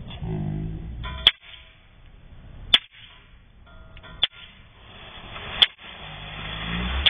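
Newton's cradle steel balls clacking: five sharp clicks about a second and a half apart, over a low background murmur.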